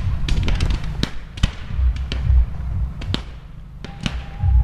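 Fireworks going off: a string of sharp, irregularly spaced bangs and cracks over a low rumble, thinning out briefly past the middle.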